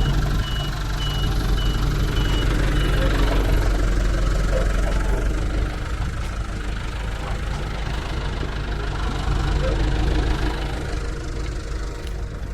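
Heavy diesel machinery engine running steadily, a truck or the JCB working beside the stuck truck. A regular high-pitched beep sounds over it for the first few seconds, then stops.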